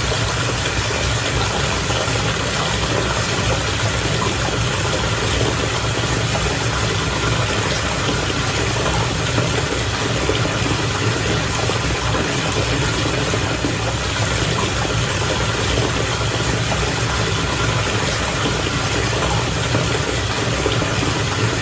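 Bath water bubbling steadily, with a low motor hum underneath.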